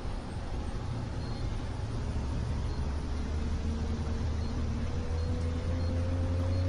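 Low, steady motor rumble with a fainter tone that climbs slowly in pitch and grows a little louder toward the end.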